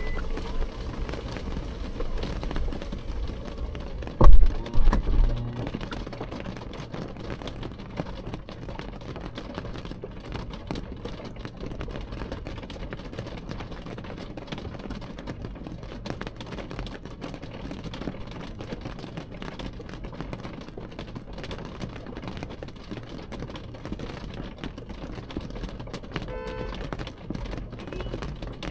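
Rain falling on window glass, a dense, steady patter of drops, with a few loud low thuds a little over four seconds in.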